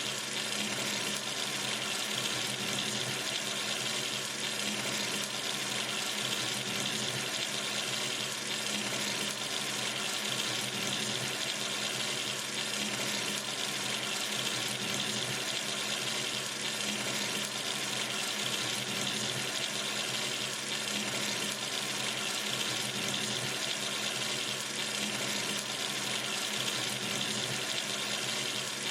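Water running steadily from a sink tap, a constant even rush with no changes.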